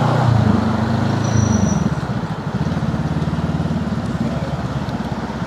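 Honda Rebel 500's parallel-twin engine running, heard from on the motorcycle; it is louder for the first two seconds, then eases to a steady, lower, evenly pulsing note.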